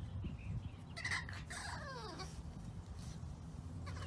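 A faint animal call about a second in, one drawn-out cry falling in pitch, over a low steady hum.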